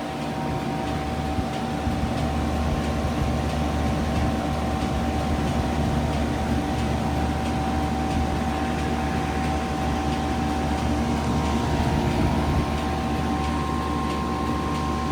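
2016 Lasko Power Plus heat pump running steadily with its coil iced over, a constant hum with a few steady tones on top. It is still running before going into defrost.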